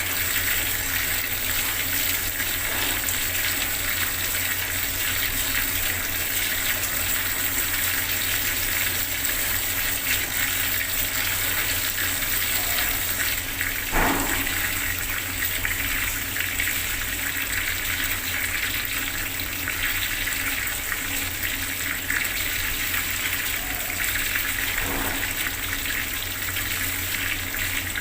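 Bathroom water tap running in a steady stream, an even rushing splash. About halfway through there is one brief, louder sound, with two fainter ones near the start and near the end.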